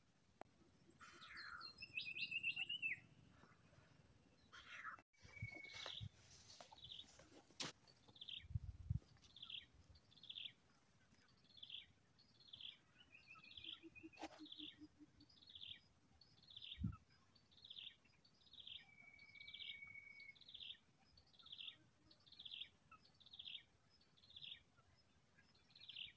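Faint forest birdsong: one bird repeats a short, falling chirp about every two-thirds of a second, with a few other brief bird calls and a steady thin high tone behind.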